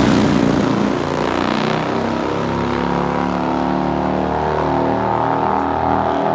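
Nitro-burning drag motorcycle engines after a full-throttle pass, several uneven engine notes shifting and stepping in pitch as the bikes shut off and coast down track.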